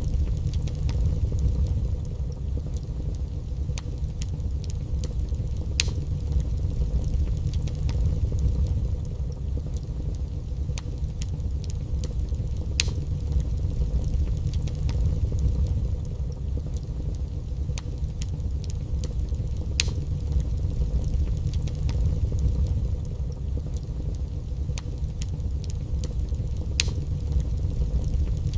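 Wood fire burning in a fireplace: sharp crackles and pops every second or two over a steady low rumble.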